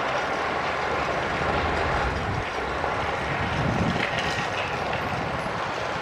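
Heavy diesel earthmoving machinery running steadily under load, with a brief swell about four seconds in.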